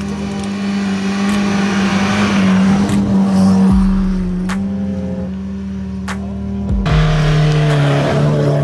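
Small petrol cars, a Renault Twingo and then a Volkswagen New Beetle, driven hard through loose sand, engines held at steady revs over a hiss of thrown sand. The engine note drops to a lower pitch about seven seconds in as the second car takes over.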